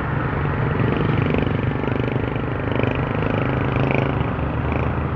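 Motorcycle engine running steadily while riding, its low drone holding a fairly even pitch throughout.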